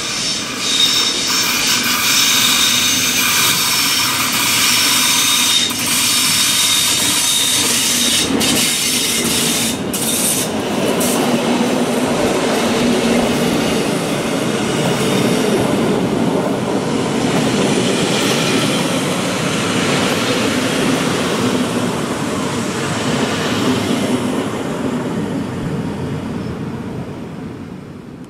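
Rhaetian Railway electric locomotive and red passenger coaches passing close by on a curve through a station: high steady wheel squeal over the first several seconds, a few sharp clicks around the middle, then the steady rolling noise of the coaches going by, fading near the end.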